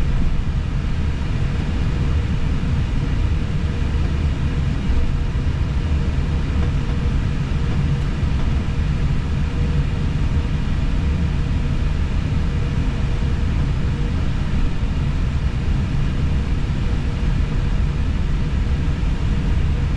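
Steady low rumble inside an Airbus A320 cockpit while the airliner taxis with its engines running, with a faint steady tone above it.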